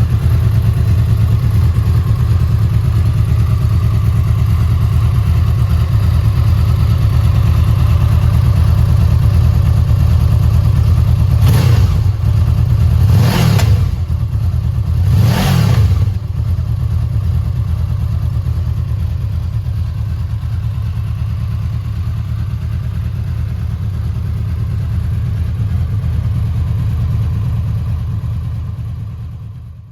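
Honda VFR800F's V4 engine idling steadily, blipped three times in quick succession about halfway through, each rev rising and dropping back to idle.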